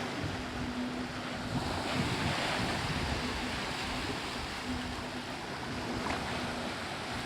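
Sea waves breaking and washing up the sandy beach, with a swell of surf about two seconds in. Wind buffets the microphone, and a faint steady low hum comes and goes underneath.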